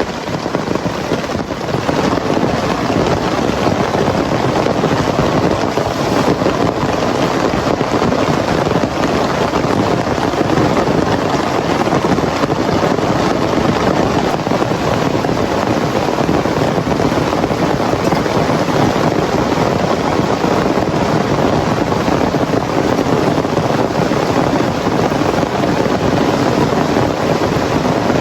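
Heavy rain pouring in a dense, steady downpour that grows heavier over the first couple of seconds and then holds.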